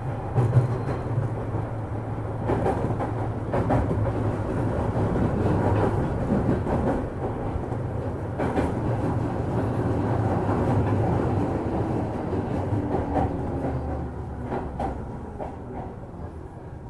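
Running sound inside a JR East 205-series electric train's motor car: a steady low hum of the traction motors and wheels, with wheel clicks over rail joints now and then. The sound gradually fades over the last few seconds as the train slows on its approach to a station.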